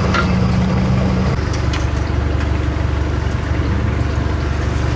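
Off-road 4x4 engine idling steadily, a low even hum, with a few light clicks near the start.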